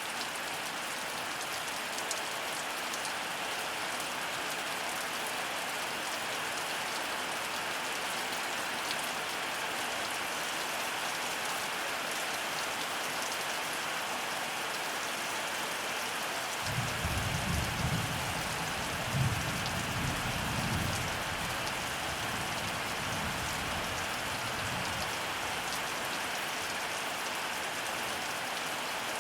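Heavy rain falling steadily, with a low rumble of thunder rolling in about halfway through and dying away over several seconds.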